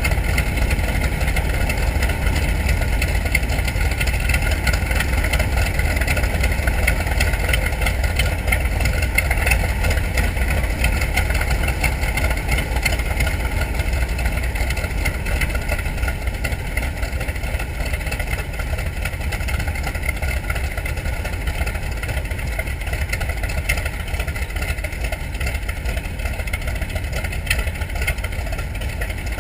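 Wright R-2600 Cyclone twin-row radial engine of a TBM Avenger running steadily at low power, dropping slightly in loudness toward the end.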